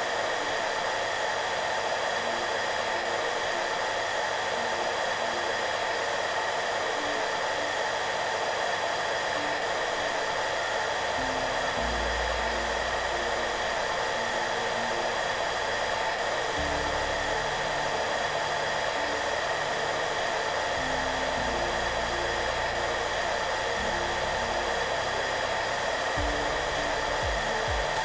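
Hair dryer running steadily, a constant even rush of air with a motor hum, over soft background music whose low notes come and go underneath.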